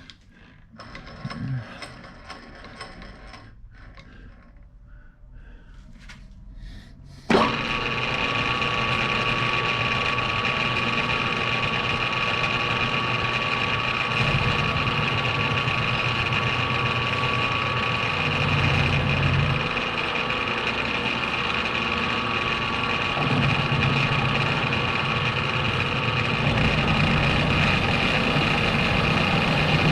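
A few light clicks of handling, then about seven seconds in a metalworking machine tool starts abruptly and runs steadily with a constant whine, cutting metal down to size.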